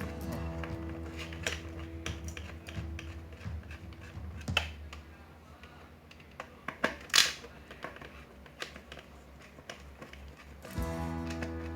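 Small metal clicks, taps and scrapes of a screwdriver working out the bolts of a juicer's motor mount, with one sharper scrape about seven seconds in. Background music plays over the first few seconds and comes back near the end.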